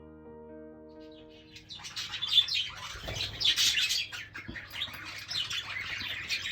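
Piano music for the first second or two, then a flock of budgerigars chattering with rapid, continuous high chirps and warbles.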